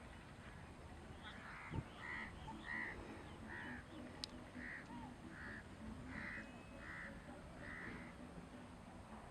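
A bird giving a series of about ten harsh calls, roughly one every two-thirds of a second, with a brief low thump near the start and a sharp click about midway.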